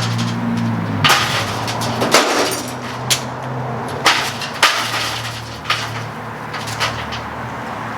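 Irregular sharp knocks and clinks of hands-on repair work, about one a second, over a steady low machine hum that shifts in pitch a few times.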